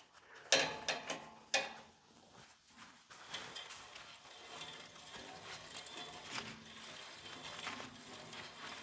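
Central Machinery 14-inch band saw being worked by hand after the blade is tensioned. A few sharp clicks and knocks come in the first second and a half, then a faint, steady mechanical whir from the turning mechanism.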